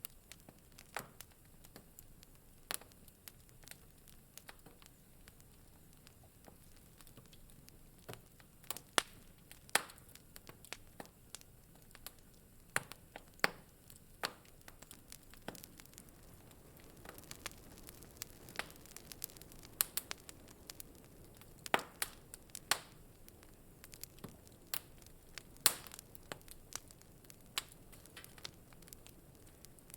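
Wood fire crackling in a fireplace: irregular sharp pops and snaps, a few louder ones scattered through, over a faint low hiss.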